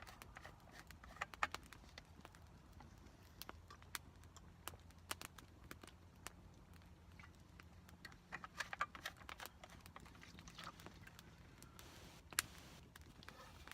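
Faint, irregular crackles and snaps from a small wood campfire being built back up.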